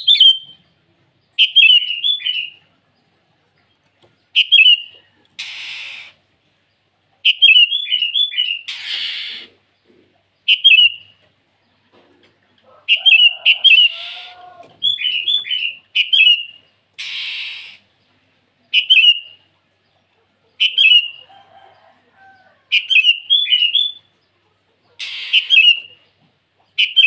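Sooty-headed bulbul (kutilang) giving short, loud, bubbly whistled phrases over and over, about one every one to two seconds, the call it uses to challenge a rival. Several brief hissy bursts of noise fall between the phrases.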